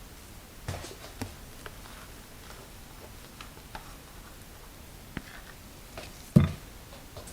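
A spatula working thick cake batter in a mixing bowl: soft scraping with scattered light clicks against the bowl, and one louder knock near the end.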